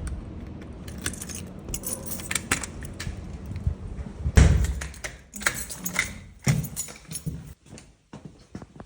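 Small metal objects jingling and clicking as they are handled, with a heavy thump about four and a half seconds in.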